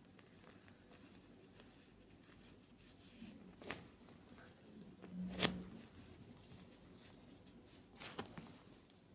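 White Reform gym chalk being crushed: three short dry crunches spread over a few seconds, the loudest about halfway through, with quiet between.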